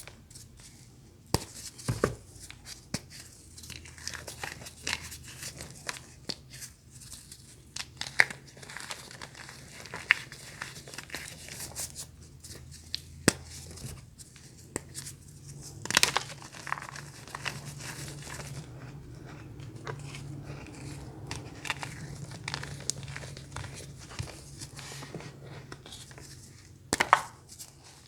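Crunchy ASMR material from a tub handled by hand: irregular crinkling and crackling, with a few sharper, louder snaps.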